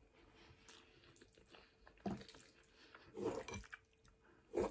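Close-up chewing of a mouthful of cheesy spaghetti, with wet mouth sounds and a few short, louder noises about two, three and four and a half seconds in.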